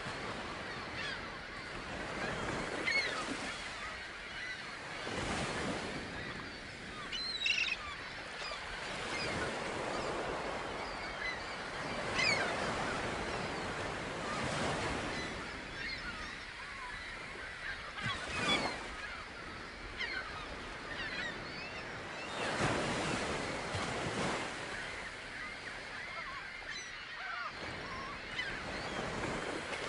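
Gulls calling again and again over the wash of water and wind, which swells and fades every few seconds.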